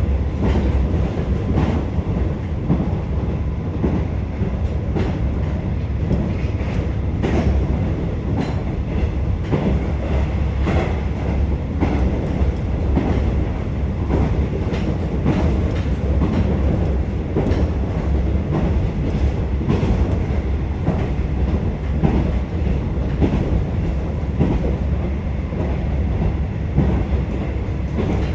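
Interior running noise of a KiHa 47 diesel railcar under way: a steady low rumble from the engine and running gear, with frequent irregular clicks and knocks of the wheels passing over rail joints.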